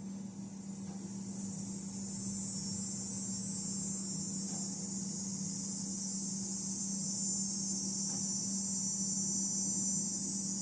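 Steady, high-pitched insect chorus that slowly grows louder over several seconds, over a steady low hum.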